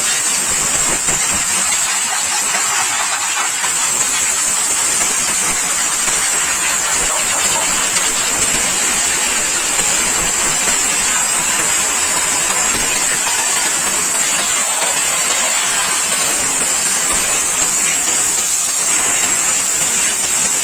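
Steady, loud hiss of a high-pressure jet from bike-wash equipment playing over a motorcycle, with a machine's motor running beneath it. The sound is unbroken and even throughout.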